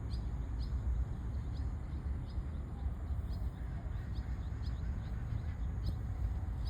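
A small bird chirping over and over, a short falling chirp about every two-thirds of a second, over a steady low rumble.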